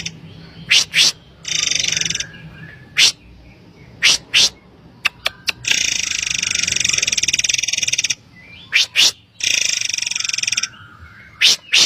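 Murai air bird calls, as played from a lure recording: sharp, clipped high notes alternating with long, buzzy high trills. The longest trill runs about two seconds, near the middle.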